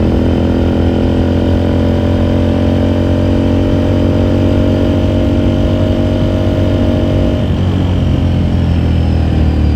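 2018 Ducati Scrambler Sixty2's air-cooled L-twin engine running under way with a steady exhaust note. About seven and a half seconds in the note breaks up briefly and settles lower.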